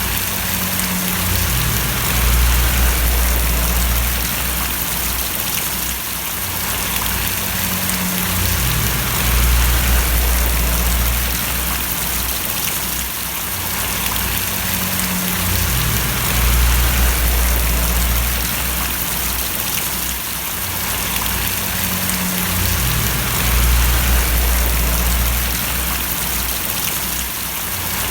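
Steady rain, a dense hiss of falling and splashing drops. Under it, a low rumble swells and fades about every seven seconds.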